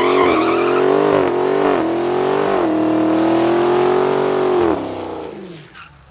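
Car engine at full throttle, accelerating hard, its pitch climbing and dropping back at several quick gear changes in the first two and a half seconds, then rising steadily before the throttle lifts near the end and the sound fades away. A wavering tyre squeal rides over it in the first second.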